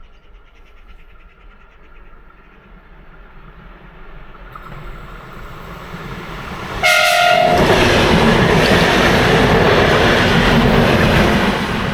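A train approaching and growing louder, which gives one short horn blast about seven seconds in and then passes close by with loud, steady rolling noise that starts to fade near the end.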